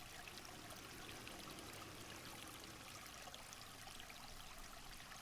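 Faint, steady rushing of running water, like a distant forest stream.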